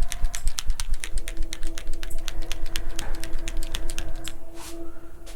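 A bottle of metallic gold airbrush paint being shaken hard, rattling in quick clicks about seven or eight a second that slow and fade near the end. A steady hum starts underneath about a second in.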